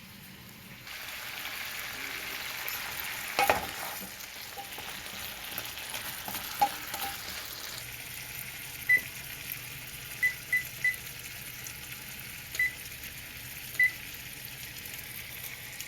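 Food sizzling in a hot pan as chicken broth goes in, with a clatter of utensil on pan. Later come a run of short, high electronic beeps.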